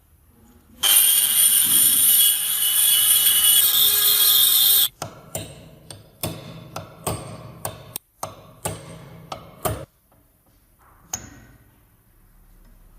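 A power tool runs loudly for about four seconds, a steady hiss with a fixed whine in it, and cuts off suddenly. Then comes a quick run of about a dozen sharp knocks and taps on metal parts, and one more near the end.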